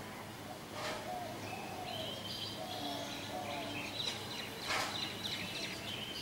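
Songbirds chirping and singing in quick runs of short high notes, with a few lower whistled notes, over a steady background hiss. Two brief sharp noises break in, about a second in and again about two-thirds of the way through.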